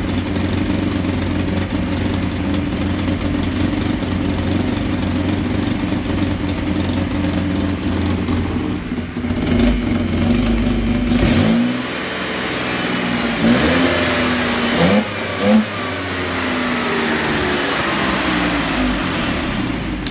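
Mercedes-Benz W124 2.8-litre straight-six engine idling steadily, then its speed dips a little past halfway, followed by a few quick throttle blips that rise in pitch before it settles back to a steady idle.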